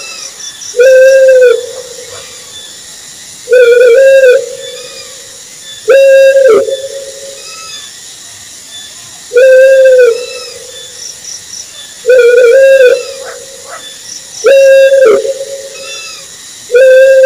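Owl hooting: a single low, pitched hoot of under a second, repeated seven times at intervals of two to three seconds.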